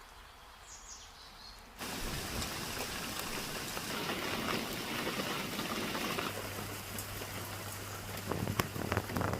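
Heavy rain pouring down, starting abruptly about two seconds in after a quiet stretch. A few louder sharp knocks land near the end, and a low steady hum comes in about six seconds in.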